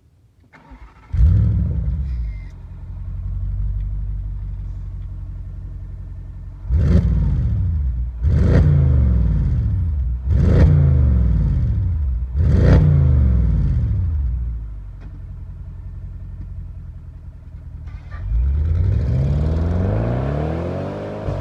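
Audi S6 C7's 4.0 TFSI twin-turbo V8 through an aftermarket sport exhaust starts up about a second in with a flare of revs, then idles. It is revved in four quick blips, idles again, and near the end revs up in a longer climb.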